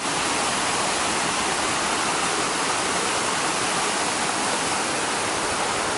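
Steady rush of water from a waterfall and stream, an even hiss with no breaks that starts abruptly.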